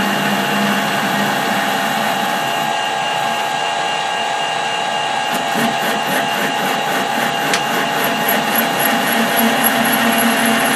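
Metal lathe running, its tool taking a cut in tough steel: a steady machine hum with cutting noise. A faint, regular ticking comes in about halfway through.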